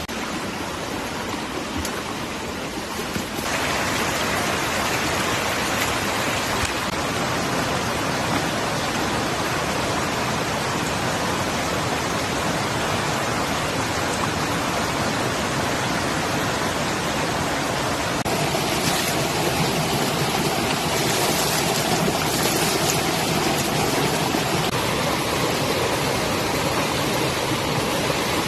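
Steady rushing water. It gets louder about three and a half seconds in, and a little louder again past the middle.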